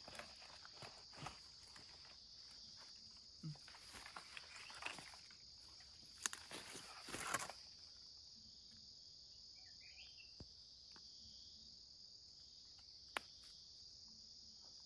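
Insects chirring in a steady, high, unbroken drone, with faint rustling and handling noises during the first half.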